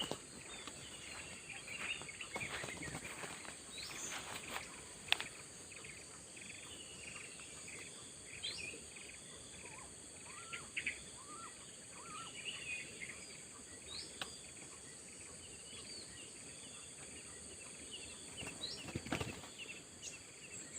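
Countryside ambience: a steady high-pitched insect drone with many short, scattered bird chirps and a few soft clicks and knocks.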